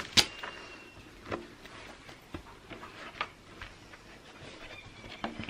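A sharp click near the start, then a few softer, scattered knocks and taps, like things being handled or set down.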